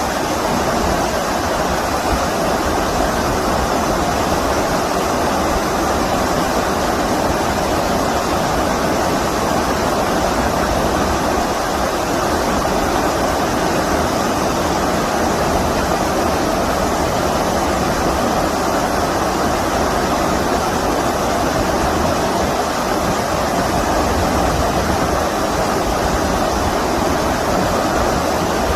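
Stream water rushing steadily, an even unbroken noise with no changes.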